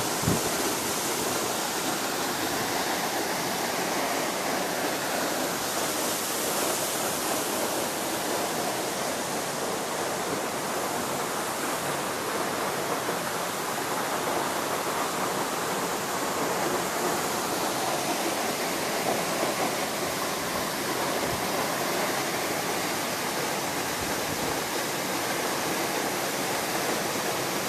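Waterfall pouring, a steady rush of falling water that holds an even level throughout.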